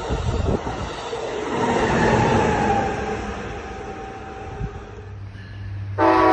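Passenger train cars rushing past on the rails, the noise swelling and then fading as the train pulls away, with a faint falling whine. Near the end a locomotive horn suddenly starts blowing, a loud steady chord of several tones, from another train approaching a station.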